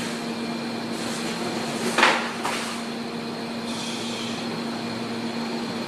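Steady hum of an idling engine, with a sharp knock about two seconds in, a fainter one just after, and a brief high hiss near four seconds.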